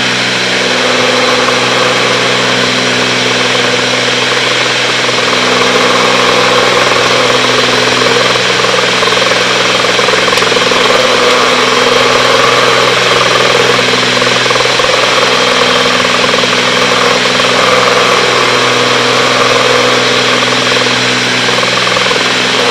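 Cessna 310's twin piston engines and propellers droning steadily in climb, heard from inside the cockpit; the low tones of the drone waver and fade in and out now and then.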